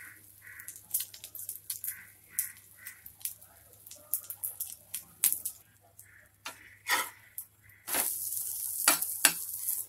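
Egg omelette sizzling in oil on a flat tawa, with many small crackling pops. From about eight seconds in the sizzle gets louder and denser as the omelette is turned over on the hot oiled pan.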